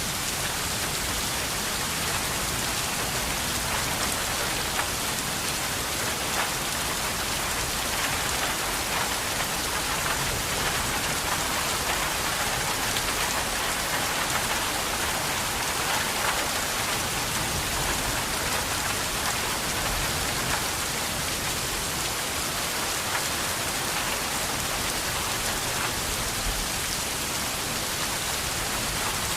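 Steady rain falling, an even hiss with faint patter of individual drops.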